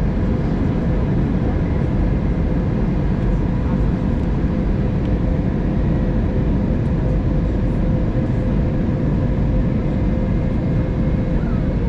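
Steady cabin noise of an Airbus A320neo airliner in flight on descent: a constant low rush of airflow and engine noise with a thin, steady hum running through it.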